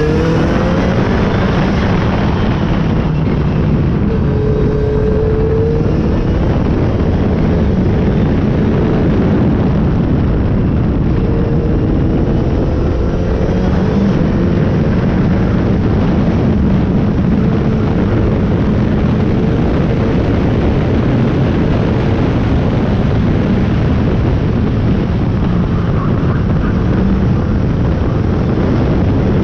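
Toyota Starlet running on the move, heard from a microphone on its bumper: steady engine and exhaust drone with pitch that drifts up and down, under heavy wind and road rumble.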